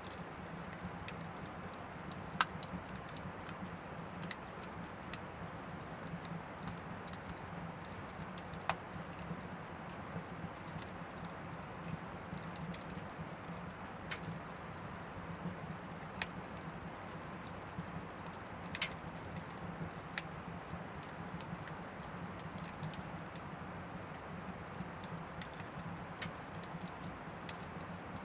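Oak firewood burning in an Anevay Frontier Stove Plus wood stove: scattered sharp crackles and pops, a few louder snaps, over a steady low background.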